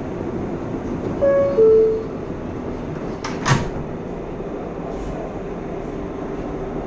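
Subway car door chime, a higher note followed by a lower one about a second in, signalling that the doors are closing. About two seconds later comes a sharp knock as the doors shut, over the steady rumble of the train car.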